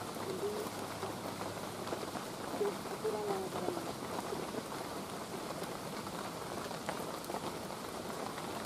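Steady rain falling on forest leaves, an even hiss, with faint voices in the first few seconds.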